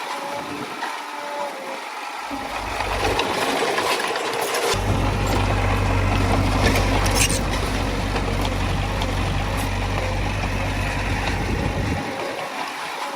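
Heavy earthmoving machinery's diesel engine running, working harder from about five seconds in and easing off near the end, with a few scattered metallic clanks.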